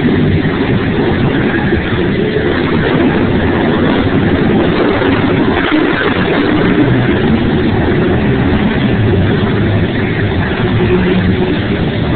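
Monster truck engine running loud and continuous, its pitch wavering as the throttle changes.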